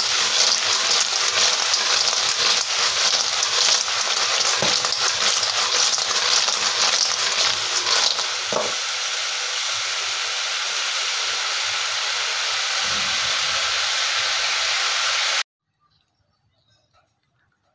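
Snails frying in a wok, sizzling loudly. For the first half they are being stirred, with irregular scrapes and knocks; then the sizzle carries on steadily and cuts off suddenly near the end.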